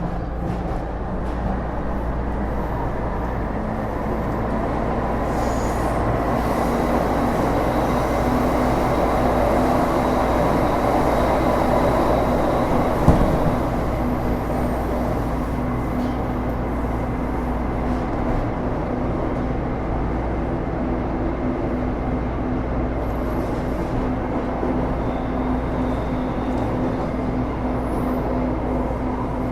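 Taipei Metro Series C301 car (IGBT-VVVF traction) heard from inside, running along the track: a steady rumble of wheels on rail with faint steady tones over it. It swells a little towards the middle, with a single sharp knock about thirteen seconds in.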